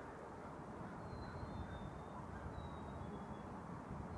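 A steady low droning hum with no clear beat, which the man takes for a huge beehive of bees stirring in the valley below. A few faint, short, high bird chirps sound over it.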